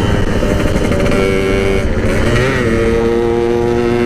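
Yamaha RX-King 135cc single-cylinder two-stroke engine running at road speed while the bike is ridden, with wind rumble on the microphone. The engine note wavers and shifts pitch about two and a half seconds in, then holds steady.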